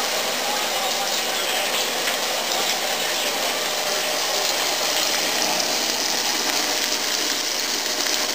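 Meatballs frying in a pan, giving a steady, even sizzling hiss.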